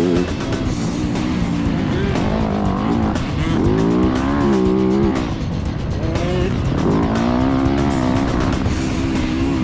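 Motocross dirt bike engine revving up and dropping back again and again, its pitch climbing and falling every second or two, with music underneath.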